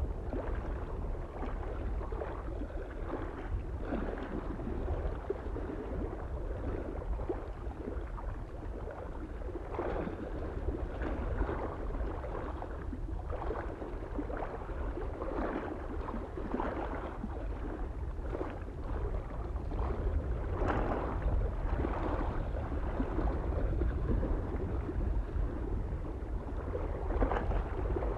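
Small waves lapping and splashing irregularly against a lake shore, a little livelier in the last third, over a steady low rumble of wind.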